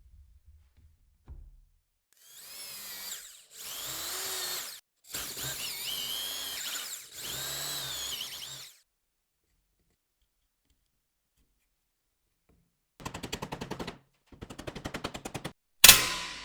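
Workshop power-tool work: four runs of a high-pitched power tool whose pitch wavers. After a pause come two bursts of rapid, even clicking, then a single sharp strike that rings briefly near the end and is the loudest sound.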